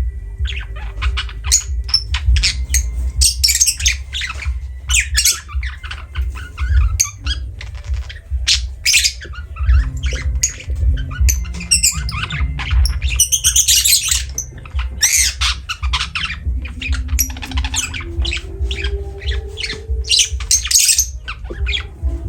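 Lovebirds squawking and chirping in rapid, shrill, irregular calls, many overlapping, over a steady low rumble.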